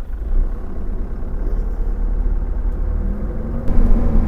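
Iveco bus-conversion caravan on the move: steady low engine rumble and road noise, growing louder about three and a half seconds in.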